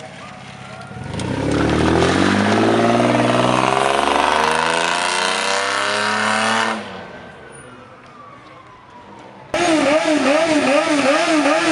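Car engine revving hard, its pitch climbing steadily for about five seconds before the throttle is lifted and it falls away. Near the end a loud wavering, warbling tone starts suddenly.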